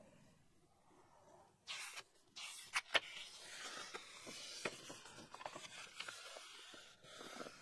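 Pen nib scratching across paper in a series of strokes, with a few small sharp clicks as it touches down; the sharpest click comes about three seconds in.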